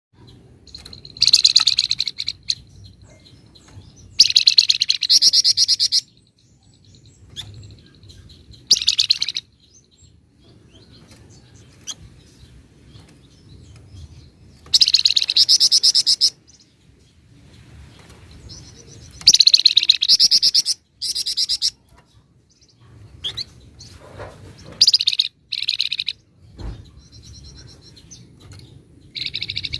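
A flamboyan songbird singing in loud, fast chattering trills, each burst a rapid string of repeated notes lasting up to about two seconds, coming again every few seconds with short single calls between them. A faint low hum runs underneath.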